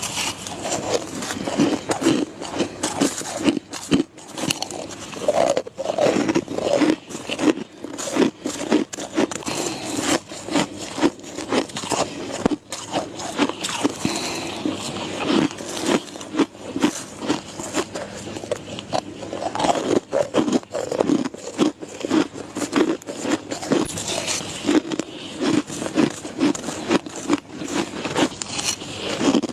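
Close-miked biting and chewing of white ice: a continuous run of crisp crunches and crackles, several a second.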